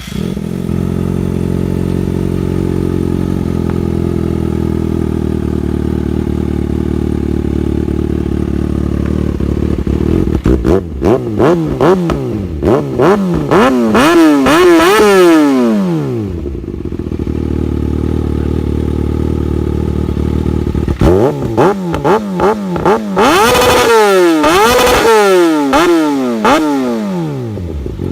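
Kawasaki ZX-6R inline-four engine idling through a Xavier slip-on exhaust, then revved in two sets of quick throttle blips, each climbing higher before falling back to idle. The first set comes about ten seconds in, the second about twenty seconds in.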